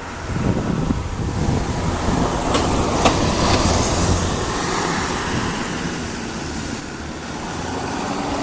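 Cessna 172S Skyhawk aircraft noise: a steady low rumble with a rushing hiss that swells in the middle and eases off near the end. Two sharp clicks come about two and a half and three seconds in.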